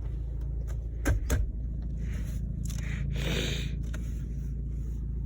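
2007 Jeep Compass engine idling steadily, heard from inside the cabin. Two clicks come about a second in, and a brief scraping rustle around three seconds in.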